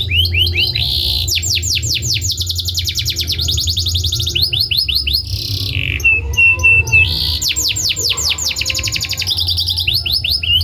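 Domestic canary singing: fast rolling trills of rapidly repeated high notes, switching from one trill to another every second or so, with a steady held whistle about six seconds in.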